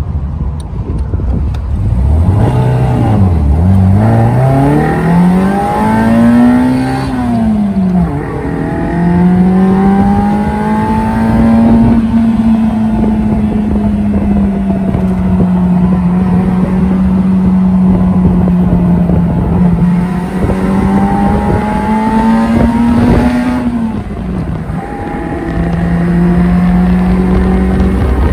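Honda S600's small four-cylinder engine heard from inside the cabin while driving: the revs climb and fall through the first gear changes, drop sharply about 8 seconds in on a shift, then hold steady at high revs, around 6,000–7,000 rpm, dipping briefly once more near the end before settling again.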